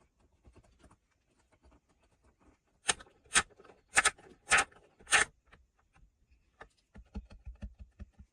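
Five sharp knocks about half a second apart, then a quicker run of softer, duller thumps near the end.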